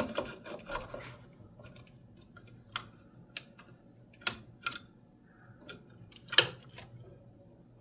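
Small screws and a hand tool being handled during disassembly of a tankless water heater's housing: a brief rustle, then about six sharp, scattered metal clicks.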